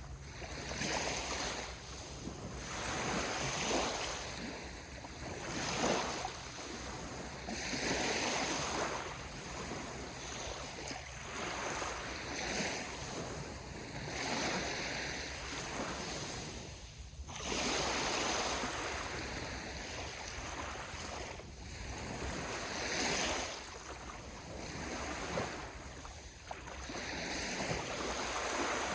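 Sea waves washing in one after another, a steady rush that swells and falls back every few seconds.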